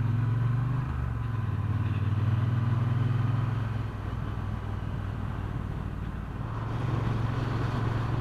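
Motorcycle engine running steadily under way. It eases off and goes quieter for a couple of seconds in the middle, then picks up again.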